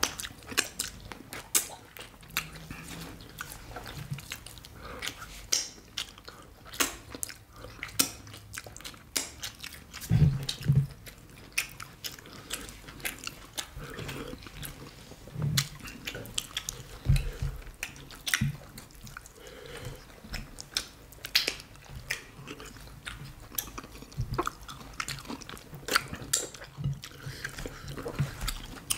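Close-miked chewing and wet mouth smacks of two people eating fufu with banga soup by hand. It is an irregular string of short, sharp clicks.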